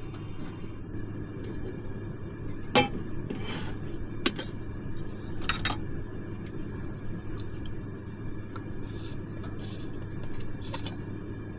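A few scattered clinks and knocks, like kitchenware being handled, over a steady low hum.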